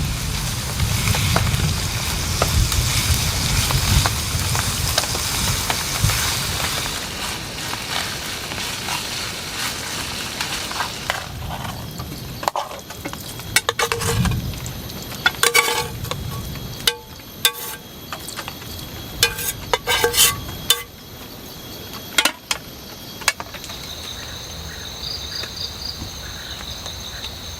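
A steady hiss of rain or frying that drops away after about eleven seconds, leaving insects trilling and chirping in the forest. Through the middle come a dozen or so sharp clinks and knocks with a short ring.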